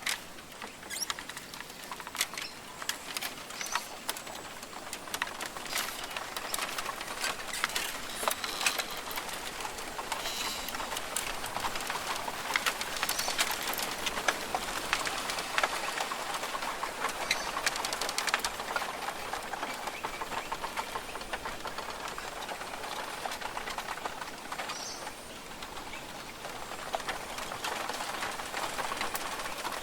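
Rainforest ambience: birds calling now and then over a steady hiss, with a dense scatter of sharp clicks and crackles.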